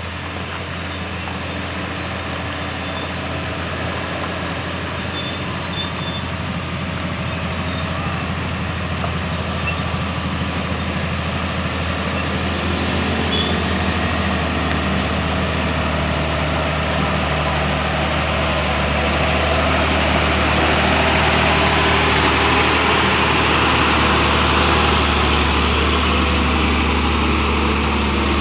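Hino 500 dump truck's diesel engine labouring under a load of sand on an uphill climb, growing steadily louder throughout.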